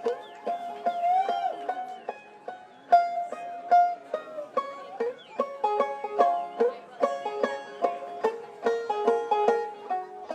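Music played on plucked string instruments, with quick runs of picked notes and a few sliding tones.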